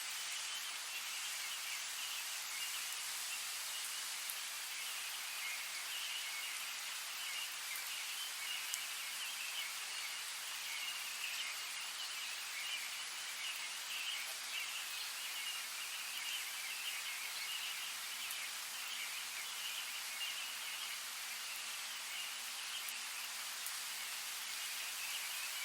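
Light rain falling steadily, an even hiss with no let-up.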